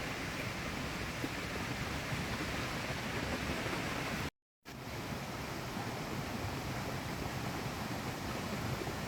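Steady rushing of a river: an even wash of flowing-water noise, broken by a brief dead gap about four seconds in.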